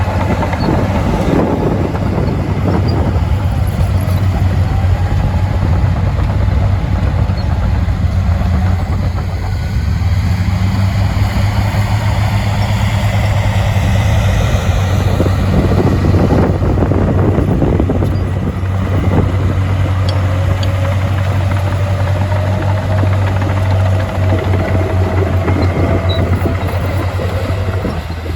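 Heavy diesel engine of earthmoving machinery running steadily under work, with a deep continuous drone.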